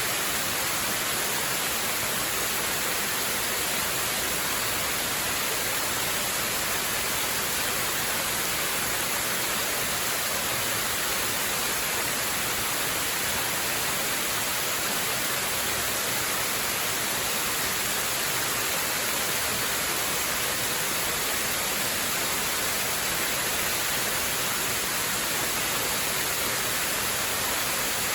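Waterfall rushing in a steady, even hiss with no change in level.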